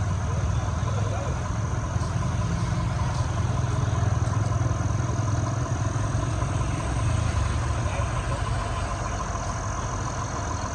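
Heavy truck engine running steadily close by, a low rumble that eases slightly near the end.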